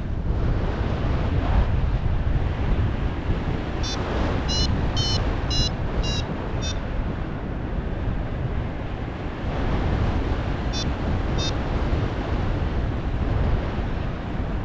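Strong wind buffeting the action camera's microphone in flight, a steady low rush. A paragliding variometer beeps through it, a quick run of about eight short high beeps about four seconds in, then two single beeps a little after ten seconds: the glider is climbing in lift.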